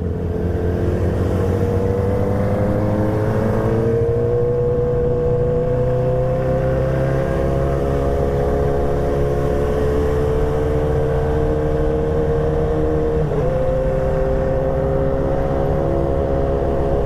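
Motorcycle engine running under way at a steady cruise, its pitch climbing slowly over the first few seconds and then holding, with a brief dip and recovery about thirteen seconds in.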